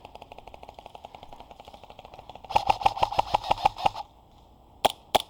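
Airsoft guns firing on full auto: a fainter rapid rattle of shots at first, then a louder, closer burst about two and a half seconds in lasting around a second and a half, followed by two single loud shots near the end.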